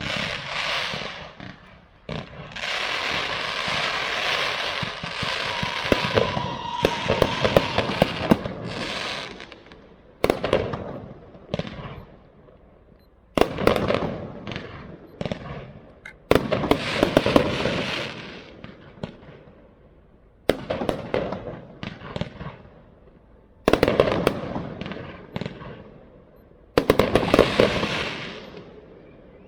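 Fireworks display: aerial shells bursting, with a dense barrage of crackling cracks for several seconds, then single loud bursts about every three seconds, each trailing off in crackles.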